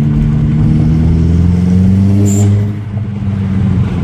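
Mk4 Jetta's turbocharged engine revving up with rising pitch. A bit over two seconds in, a short sharp hiss as the throttle closes and the newly fitted HKS SSQ blow-off valve vents, then the revs fall.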